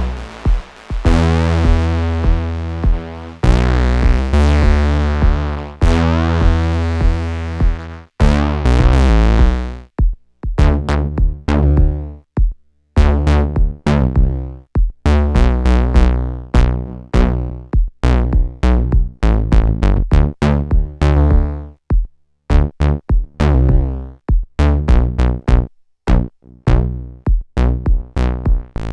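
Eurorack synthesizer sequence played through the Swenigiser Proto VCF/A filter and VCA, with the input driven hot for a gritty tone. For the first eight seconds or so the notes are long and bright, with the filter open. After that they turn short and plucked, with silent gaps between them as the VCA closes.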